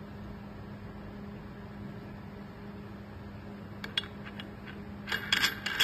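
Steady low hum, then a few sharp clicks about four seconds in and a quick cluster of louder clicks and clatter near the end: hard parts of a cordless grinder being handled.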